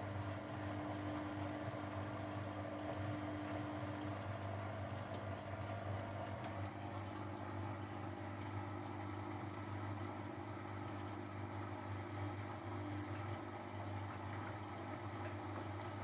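Grundig washing machine running near the end of its Refresh program, a steady motor hum. A higher tone within the hum stops about four seconds in.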